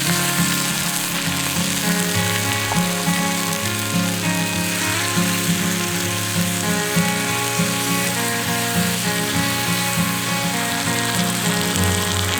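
A steady sizzling hiss, with music playing under it.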